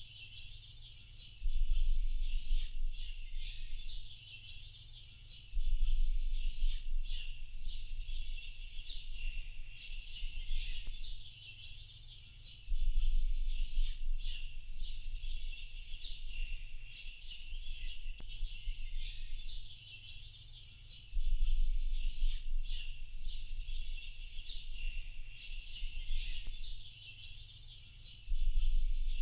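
A dense chorus of small birds chirping and twittering, many quick high chirps overlapping. About five times, a low rumble comes in suddenly, louder than the birds, and fades away over a few seconds.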